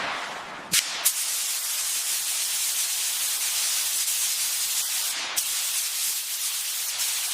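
Pressure washer spraying water onto the aircraft, a steady loud hiss, briefly interrupted about a second in and again around five seconds.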